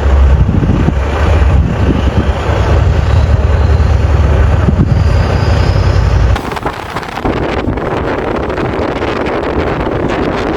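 Vehicle rumble with wind buffeting the microphone; the sound changes abruptly about six seconds in, the heavy low rumble dropping away to a steadier wind-like hiss.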